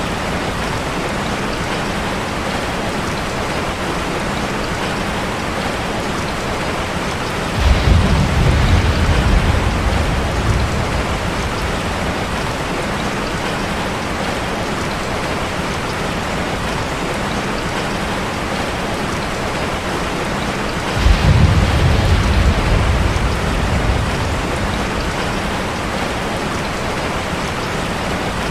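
Steady rain drumming on a metal roof. Two rolls of thunder come through it, one about eight seconds in and one about twenty-one seconds in; each starts suddenly as a low rumble and fades away over a few seconds.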